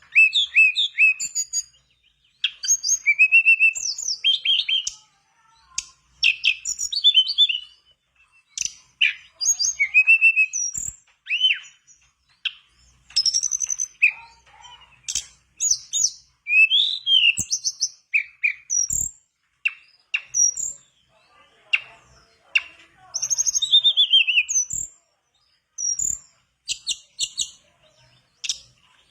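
A tledekan bakau singing actively (gacor): quick, high whistled phrases with swooping and sliding notes, sung in short bursts with brief pauses between them.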